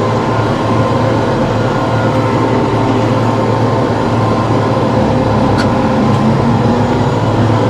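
TYM T654 tractor's diesel engine running steadily under power, a constant low hum with no change in speed.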